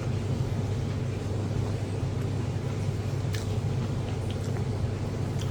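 A steady low mechanical hum with a few faint short clicks.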